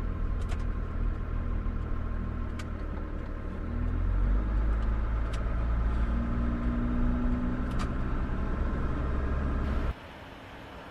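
Truck engine running with road rumble, heard from inside the cab while driving, with a few light clicks. The engine gets louder about four seconds in, and the sound cuts off abruptly near the end.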